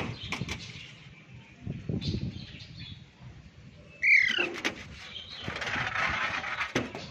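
Alexandrine parakeet giving one loud, short screech about four seconds in, falling in pitch, amid softer chirps and a rustling, fluttering sound.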